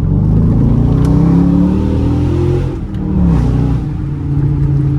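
Chrysler 300's 5.7-litre Hemi V8 accelerating hard. The engine note rises for nearly three seconds, drops at a gear change, then pulls on steadily.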